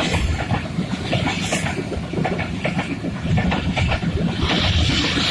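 Passenger train coaches passing close by at speed: a steady rumble with a rapid clatter of wheels over the rail joints, and a brighter hiss rising near the end.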